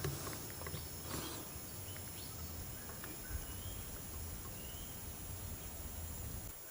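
Quiet outdoor ambience: steady low background rumble, with two faint short bird chirps around the middle and a soft click a little after that.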